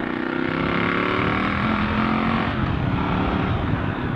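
Motorcycle engine running, its pitch drifting down and stepping between speeds, over road and wind noise.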